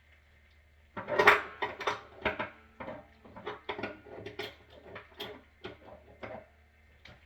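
Metal tools and plumbing parts clinking and knocking together as they are handled, a quick irregular run of about twenty sharp strikes starting about a second in, loudest at first. A low steady hum sits underneath.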